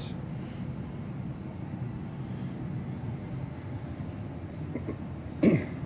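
Steady low background hum with no distinct events, then a short vocal sound from a man near the end.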